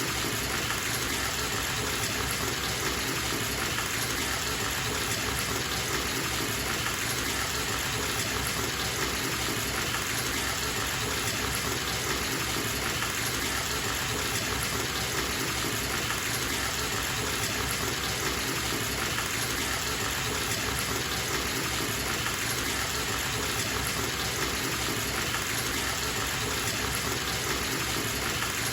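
Water gushing from a bathtub tap into a filling tub, a steady, unbroken rush.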